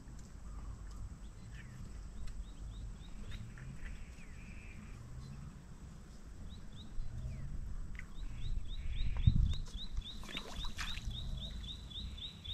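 A bird calling in a fast run of short, high, falling chirps, about three a second, from about seven seconds in, over a steady low rumble. About nine seconds in there is a dull thump, followed by a second or so of rustling.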